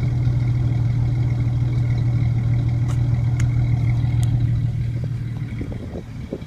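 2003 Jeep Wrangler TJ's 4.0-litre inline-six running steadily through a Spintech Sportsman muffler with no catalytic converter, giving a deep, even exhaust note. The note fades away about five seconds in.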